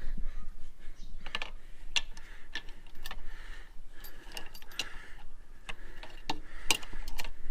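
Irregular light metallic clicks and taps of hand tools and small fork parts being handled during reassembly.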